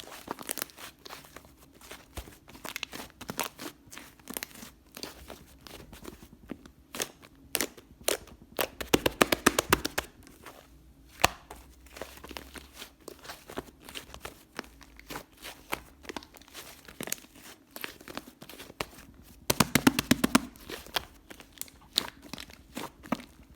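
White whipped-cream slime being squished and pressed by hand, giving many small sticky clicks and pops of trapped air. Twice, in the middle and near the end, the pops come fast and dense as the slime is worked hard.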